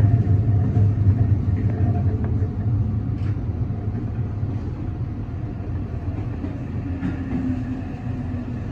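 Low rumble of a Meitetsu 300 series electric train heard from inside the driver's cab, easing off slowly as the train slows along a station platform. An oncoming train passes close alongside on the next track.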